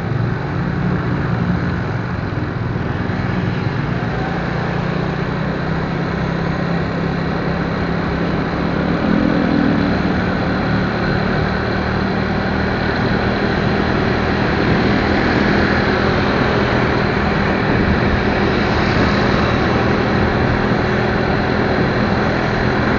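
Motorcycle engine running steadily while riding, under a steady rushing noise of wind and road.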